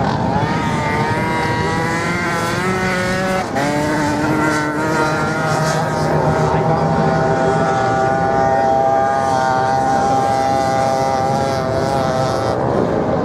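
Racing motorcycle engine at high revs, its pitch climbing, then dropping sharply at a gear change about three and a half seconds in, climbing again and holding a steady high note before it falls away near the end.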